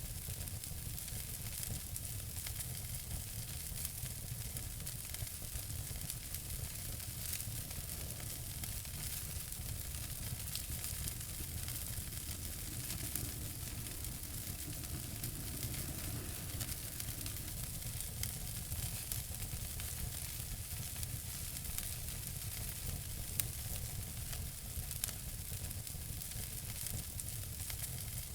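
Wood fire burning in a fireplace: a steady hiss with continual small crackles and a few louder pops near the end.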